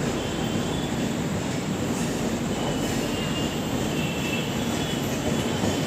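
Mumbai suburban EMU local train running steadily as it pulls out of the station, with a faint, high-pitched squeal from its wheels.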